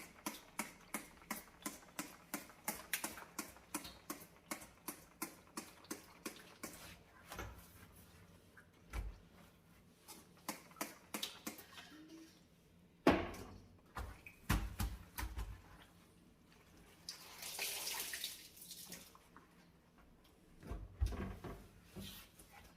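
Brisk brush scrubbing on a dirty oven or stovetop, about three strokes a second, that stops about seven seconds in. Scattered knocks and thuds follow, with a hiss lasting about two seconds a little past the middle.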